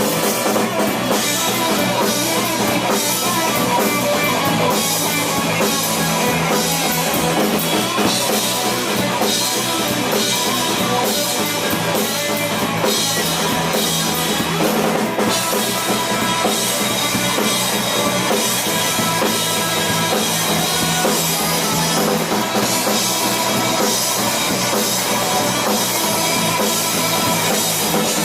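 Rock band playing an instrumental passage: a drum kit with guitars, loud and steady with no singing.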